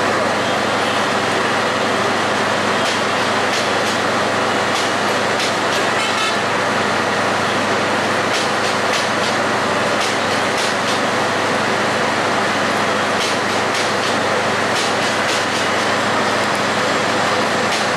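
Steady loud rumble of a diesel-hauled passenger train's coaches rolling over the tracks, with scattered light clicks.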